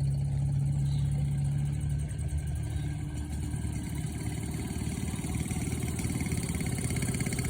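Motorbike engine running steadily with rapid even firing pulses, working hard: it barely has enough power. A steady low hum in it fades about two seconds in.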